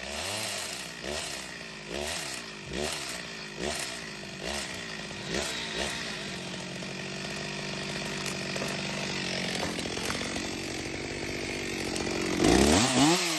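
Chainsaw engine revved in short pulses about once a second, then held at steady high revs for several seconds. Near the end it surges suddenly louder, with the pitch swinging up and down.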